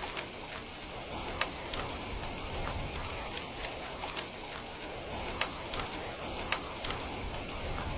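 Steady rain falling, with scattered sharp ticks over the even hiss of the downpour.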